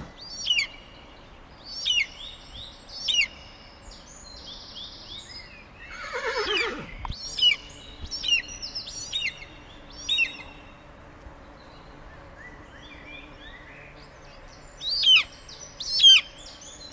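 Birds chirping: short, sharp, high calls about once a second, with a lull of a few seconds before they pick up again near the end. About six seconds in there is one longer call that falls steeply in pitch.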